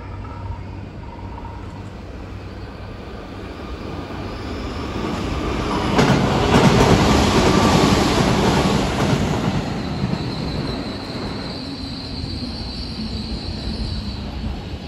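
Tobu 350 series electric limited express train passing through a station at speed without stopping. The rush of its wheels on the rails builds, is loudest for about four seconds as the cars go by, then fades. A thin, high, steady tone lingers for a few seconds after it passes.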